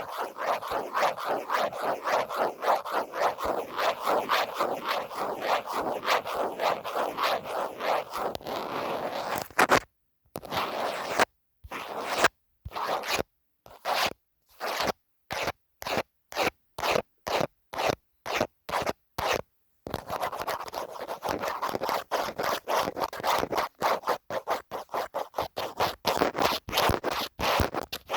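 Scratching on a phone case: quick back-and-forth strokes, then for about ten seconds separate strokes about twice a second with silence between them, then quick scratching again.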